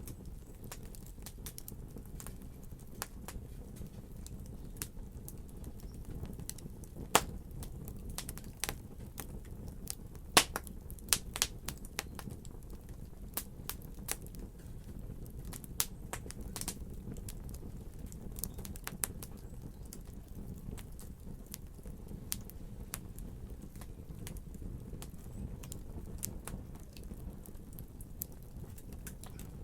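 Fire crackling in a fireplace: irregular sharp pops and snaps over a steady low rumble, with a few louder pops a quarter to a third of the way in.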